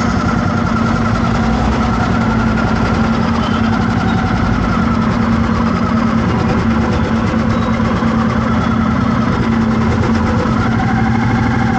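Vehicle engine running steadily at an even pitch, a constant low hum with no change in speed.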